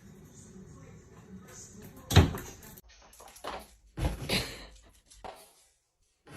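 A loud thump about two seconds in, followed by several lighter knocks and bumps.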